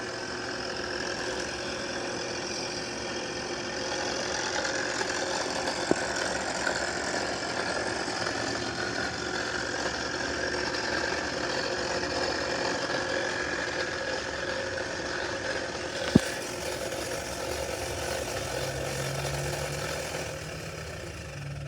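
Lathe running while turning an RF insulator part: a steady mechanical whir with a sharp click about six seconds in and another about sixteen seconds in, dying away near the end.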